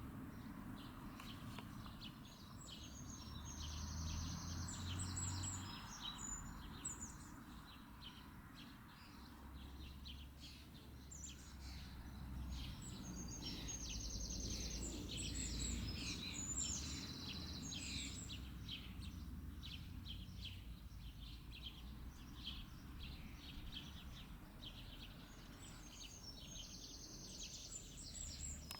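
A songbird singing three long phrases of high chirps and fast trills, spaced about ten seconds apart, over a steady low rumble.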